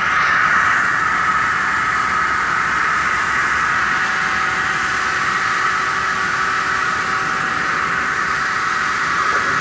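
Hydraulic aluminium-cutting circular saw machine running steadily, a constant hissing whir with a faint steady hum underneath.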